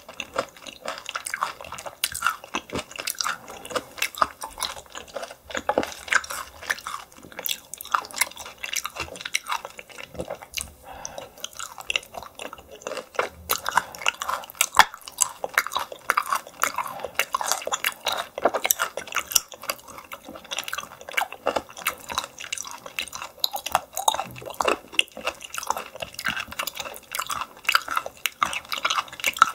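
Close-miked chewing of yellow stingray: a steady run of wet, sticky clicks and smacks from the mouth.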